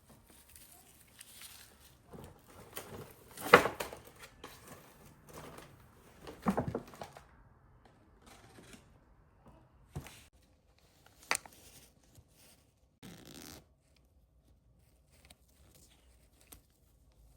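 Scattered handling sounds: rustling and scraping, with a few sharp knocks, the loudest about three and a half seconds in and a couple of short clicks around ten and eleven seconds in.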